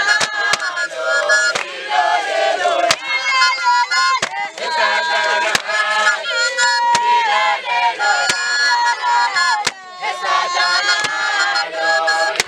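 Men and women singing and chanting together in a traditional dance song, with high shouted cries over the group and sharp, irregular percussive hits between the phrases.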